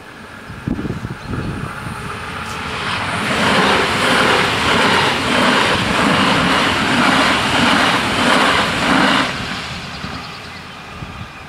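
DB Class 422 electric multiple unit passing over a level crossing at speed. Its wheels clatter rhythmically and its running gear rushes loudly for about six seconds, then the sound dies away as the train clears the crossing.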